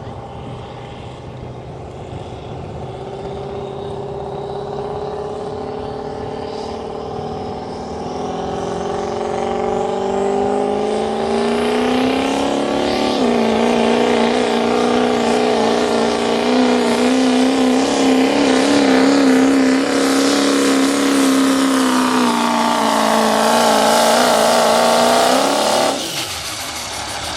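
A pulling vehicle's engine at full throttle: the revs climb steadily, drop sharply about halfway through, then hold high with a wavering pitch, dip and climb once more, and cut off suddenly near the end.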